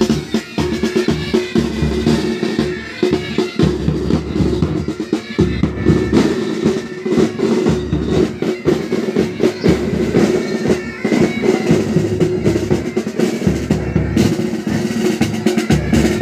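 Military pipe band playing: snare side drums rolling and beating a dense rhythm with bass drum, over the steady drone of bagpipes.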